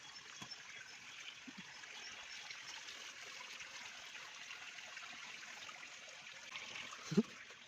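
Running water of a forest stream or waterfall: a steady, soft, even rush. A brief low sound cuts in near the end.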